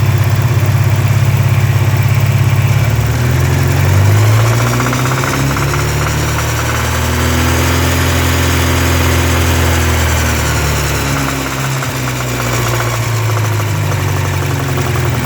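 1984 Porsche 944's 2.5-litre SOHC inline four running with a rhythmic knock. It is revved slowly up and back down to idle. The owner cannot tell whether the knock is a stuck hydraulic lifter or rod knock; it sounds lower than the cam tower and is loudest between 2000 and 3000 rpm.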